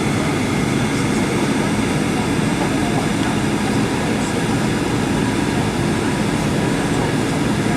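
Steady cabin noise of a Boeing 737-800 airliner: a dense, even rumble of its CFM56 jet engines and airflow, with faint steady high whines over it.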